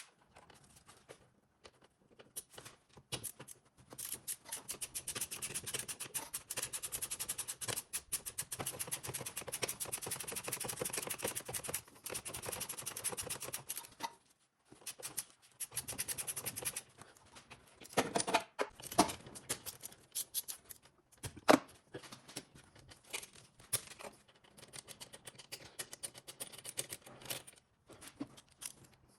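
Rapid clicking and rattling for about ten seconds, then scattered separate clicks and knocks, as of tools and car parts being handled.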